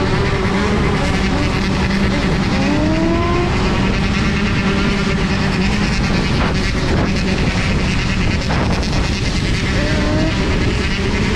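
Wind rushing over a helmet or bike-mounted camera microphone while a Sur-Ron Sting electric dirt bike is ridden, with a motor whine that rises in pitch about three seconds in and again near the end as the bike accelerates.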